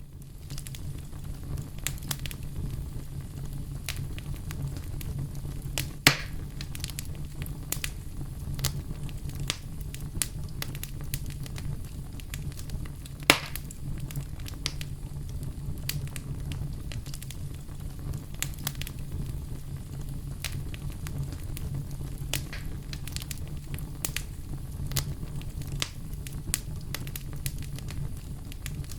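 Bonfire burning, with a steady low rumble and a constant scatter of small crackles. Two louder pops stand out, one about six seconds in and one about thirteen seconds in.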